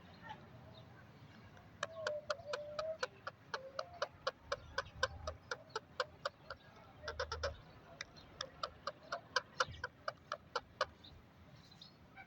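Pet parrot making a rapid series of sharp clicking, clucking sounds, about four or five a second with a couple of short pauses.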